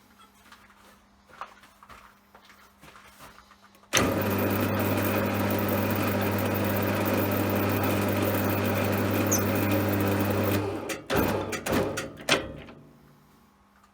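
CJM360 benchtop metal lathe switched on, running steadily with an even motor and gear hum for about seven seconds, then switched off. A few sharp metallic clicks and clinks follow.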